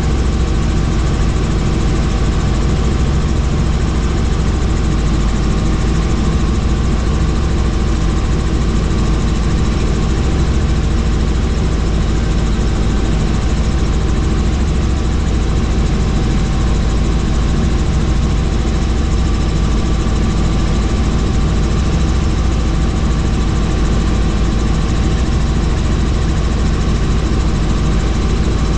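Helicopter in flight: steady, loud engine and rotor noise with a deep low drone that holds unchanged.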